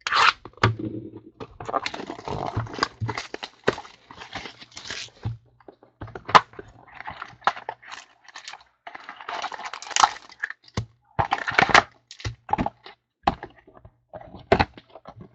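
Sealed trading card boxes and their wrapping being torn open: irregular rips, crackles and crinkles of plastic wrap and cardboard.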